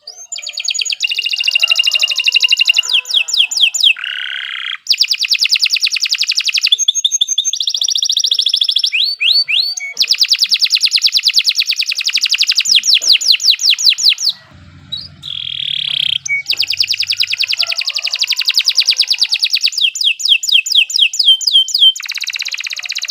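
Domestic canary singing a long, loud song of fast trills and rolls, each a rapid run of repeated notes, broken only by a couple of brief pauses.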